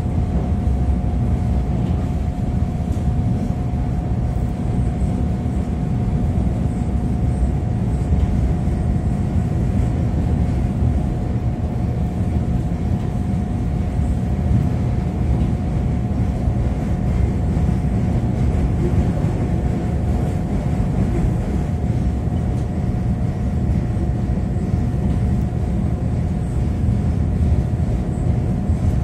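Running noise of a Chicago 'L' rapid-transit train heard from inside the car as it travels on elevated track: a steady low rumble with a steady high tone above it.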